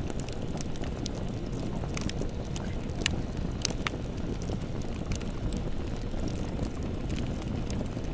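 Campfire burning: a steady low rush of flames with scattered sharp crackles and pops from the wood, a couple of louder snaps around the middle.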